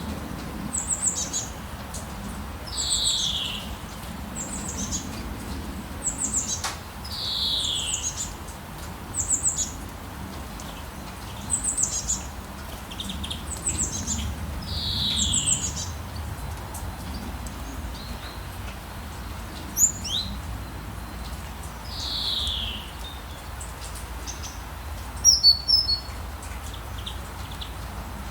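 Songbirds calling outdoors at dawn: a short call sliding down in pitch repeats every two to three seconds, mixed with quick high chirps, over a faint low steady rumble.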